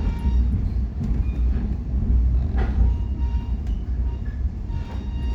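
Metra commuter train running at speed, heard from aboard: a steady heavy low rumble of the coach on the rails, with faint brief high squeals now and then.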